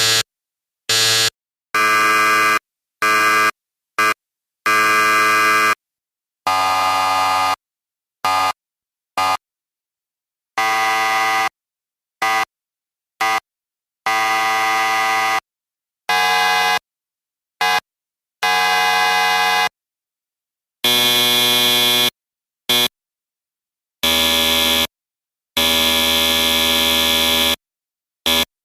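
A series of electric buzzers, each a harsh, steady buzz of a different pitch, sounded one after another with short silences between. Some are quick blips and others last a second or two.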